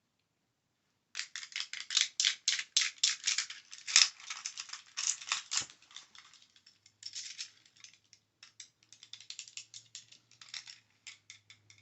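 Rapid light tapping clicks that start about a second in, come thick and fast for several seconds, then thin out into scattered taps. A faint low hum sits underneath from about seven seconds in.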